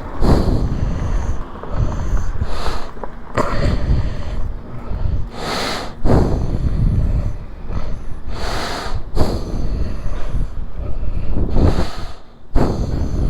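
A person breathing heavily right at a helmet-mounted camera's microphone, a breath every two to three seconds, over a steady low rumble.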